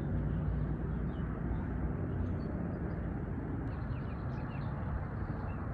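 Steady low outdoor background noise, with a few faint, high, short bird chirps about halfway through.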